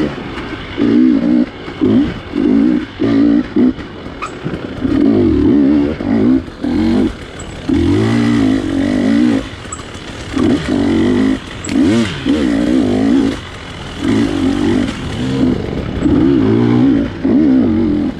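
GasGas dirt bike engine revving in short bursts, the throttle snapped open and shut over and over, with the pitch climbing in each burst and dropping back between them.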